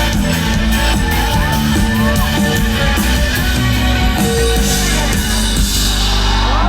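Live band music played through a PA: amplified instruments over a steady beat.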